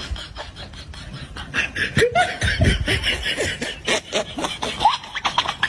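A person laughing in short bursts, with snickers and chuckles that grow louder about two seconds in.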